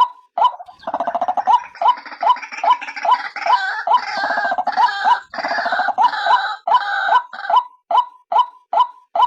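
White-breasted waterhen (female, used as a lure call) repeating a short 'kwak' note about two and a half times a second. About a second in, a rapid harsh croaking chatter breaks out over the notes and runs until about a second and a half before the end, when only the steady repeated notes remain.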